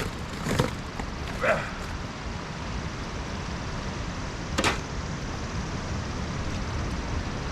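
Steady wind rushing over the microphone, with a few short rustles near the start and one sharp swish about four and a half seconds in.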